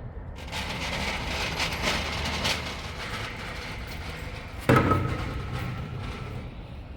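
Heavy steel square hollow section being handled: a rattling, clattering noise, then a single loud metal clang with a short ring nearly five seconds in as the steel is set down.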